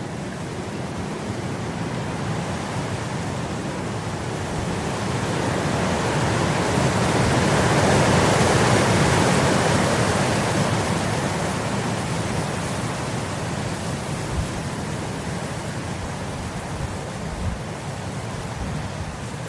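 Wind blowing across grass, a rushing hiss that swells into a strong gust about halfway through, then slowly dies back down.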